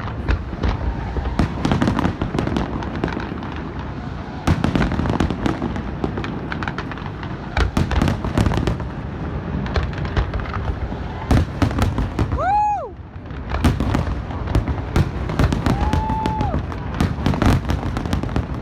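Large aerial fireworks display: a dense run of shell bursts and crackling reports over a continuous low rumble. Two brief high tones rise above it, about two-thirds of the way in and again near the end.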